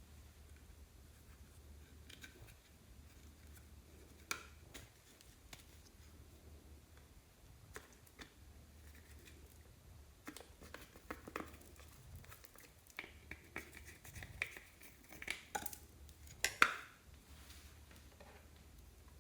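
Faint handling noises: scattered clicks, taps and scrapes of small objects, a few about four seconds in and a busier run from about ten seconds on, the loudest click about sixteen and a half seconds in, over a low steady hum.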